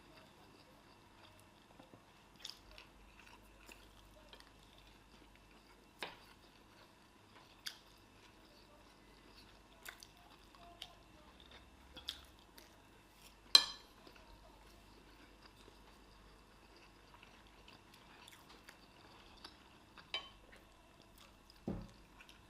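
People eating a plate meal of rice and chicken at speed: quiet chewing broken by scattered sharp clinks of tableware, about nine in all, the loudest about halfway through.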